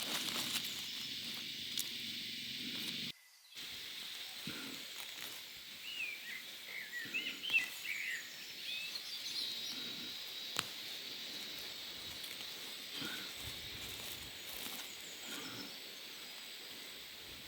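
Outdoor ambience: a steady hiss with a few short bird chirps about six to eight seconds in.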